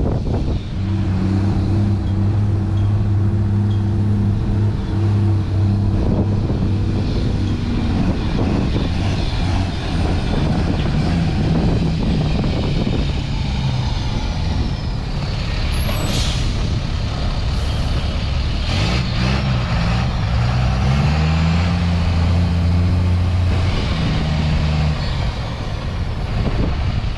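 2014 AMW 2528TP 6x4 dump truck's diesel engine running, its pitch dropping and later rising with the throttle, and a sharp hiss of air brakes about sixteen seconds in.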